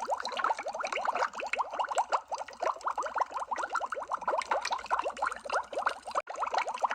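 Underwater bubbling sound effect: a dense, unbroken stream of small bubble blips, each a quick rising chirp, with a momentary dropout about six seconds in.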